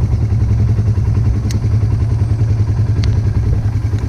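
An engine running at a steady speed with a low, pulsing rumble, and a couple of short sharp clicks or clanks on top.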